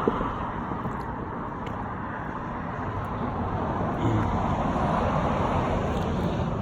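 Road traffic going by: a steady rush of tyre and engine noise that swells again about four seconds in as another vehicle passes.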